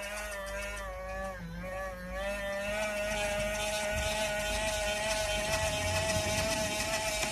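Jabo RC bait boat's electric propeller motors whining steadily. The pitch dips and recovers about a second and a half in, then holds steady and a little louder.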